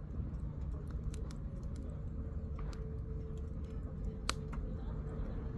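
Firewood burning in a campfire, crackling with irregular sharp pops and snaps over a low steady rumble, one pop louder than the rest about four seconds in.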